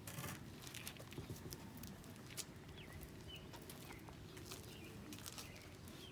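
Faint, scattered short bird chirps, with small clicks and knocks throughout.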